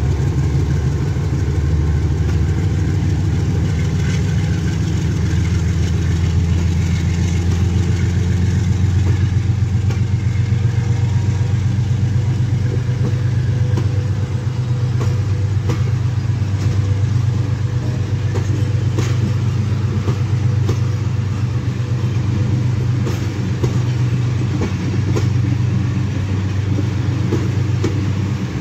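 Passenger train departing slowly: a steady low rumble as the coaches roll past, with wheels clicking over rail joints, the clicks more frequent in the second half as the train picks up speed.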